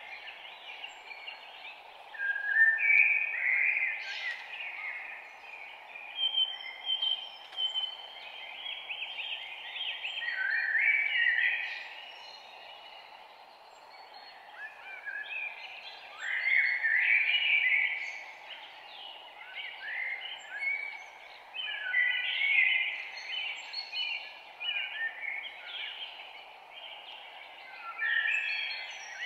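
Morning bird chorus: several songbirds chirping and singing in overlapping bursts of a few seconds each, over a steady background hiss.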